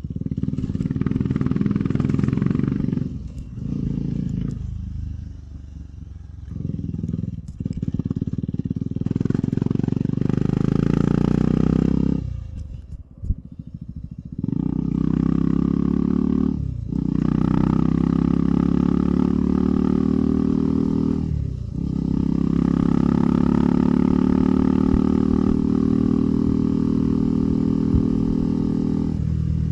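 KTM 390 Adventure's single-cylinder engine under way, the throttle closing and the engine note dropping several times, most deeply midway. In the second half the revs climb steadily, broken twice by quick dips at upshifts.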